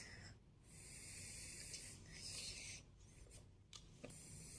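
Faint rubbing and scraping of a serving spoon putting carrot and bean poriyal onto a plate, in two soft stretches with a light click between them.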